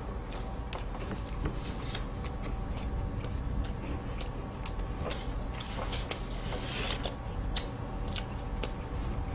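Soft, irregular mouth clicks and smacks of a person chewing the last bites of a butterfly pie (a flaky, syrup-soaked palmier-style pastry), over a steady low room hum.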